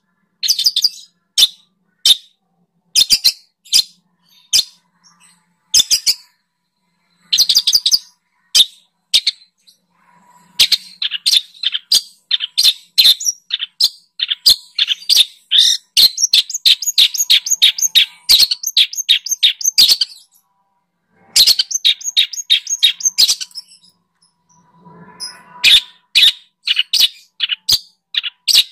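Songbird singing in sharp, high chirps and fast trills. The notes come in quick bursts, with a long rapid run of notes in the middle, broken by short pauses.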